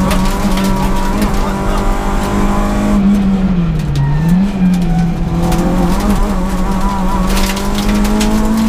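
Peugeot 106 S16 rally car's 16-valve four-cylinder engine, heard from inside the cabin, driven hard at steady high revs. The pitch dips briefly about four seconds in, then climbs back, and rises a little near the end.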